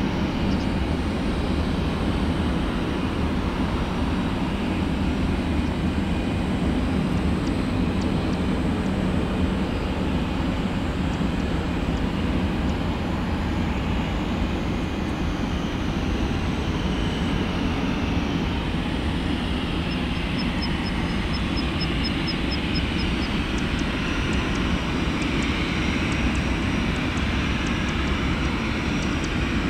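Boeing 737-400's CFM56 turbofan engines running with a steady low rumble and a faint whine that slowly shifts in pitch.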